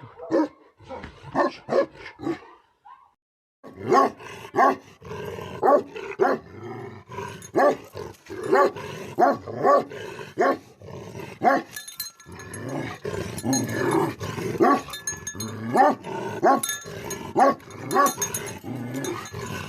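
Tibetan mastiff barking over and over, about two barks a second. The barking breaks off for about a second near the start, then carries on without a pause.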